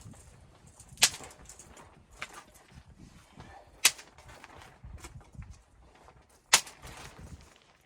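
Three sharp knocks, roughly two and a half seconds apart, with fainter knocks and rustling between them.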